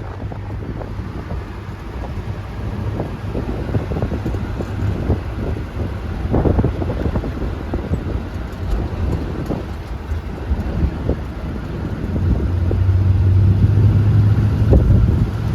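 A car engine running with a low hum that grows louder about twelve seconds in, under wind buffeting the microphone.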